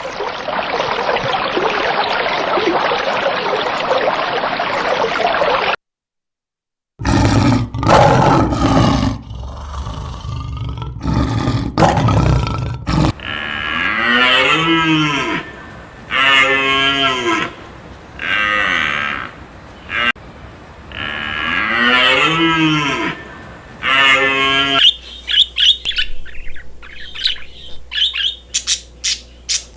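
A run of different animal sounds. About 6 s of steady hissing noise stops suddenly, then loud broken calls follow. Next come repeated rising-and-falling calls, each about a second long, and rapid bird-like chirps near the end.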